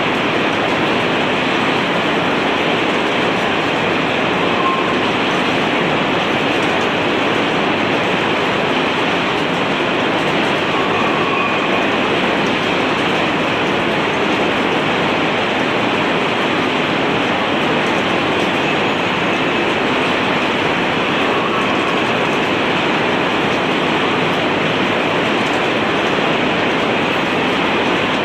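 Arc welding running continuously: a steady, unbroken noise with no pauses.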